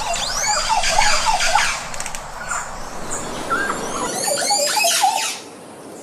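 Birds calling: many overlapping shrill chirps and squealing whistles that sweep up and down in pitch.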